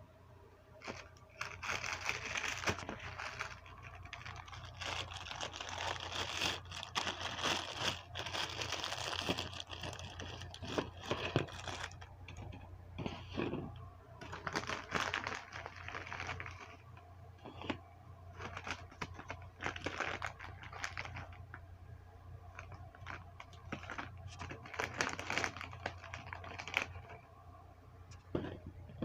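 Plastic food packaging crinkling and tearing in irregular rustling bursts as snack foods are unwrapped and laid onto plates, over a steady low hum.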